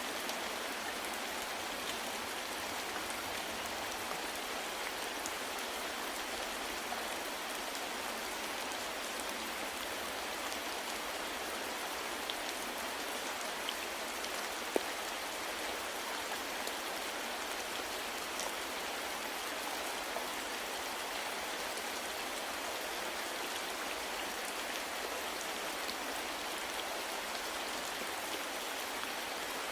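Steady soft rain falling, an even hiss with scattered individual drops ticking on a surface, one a little sharper about halfway through.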